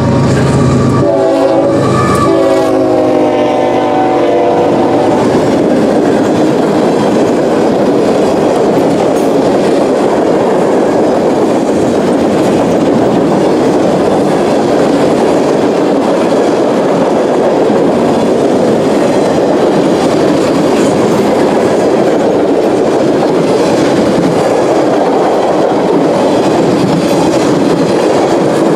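Freight train locomotive horn sounding in a few blasts, ending about five seconds in. Then the steady rolling rumble and rattle of freight cars, covered hoppers and tank cars, passing close by on the rails.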